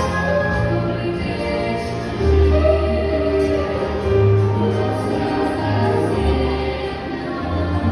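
A choir singing a song, held notes moving from pitch to pitch over a steady low instrumental accompaniment.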